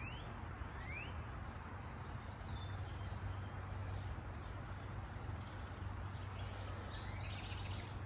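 Steady outdoor background noise with a constant low hum, and two short rising bird chirps near the start.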